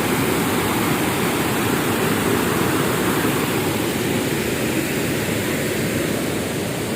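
Swollen river in flood, its fast water rushing steadily with an even, unbroken noise.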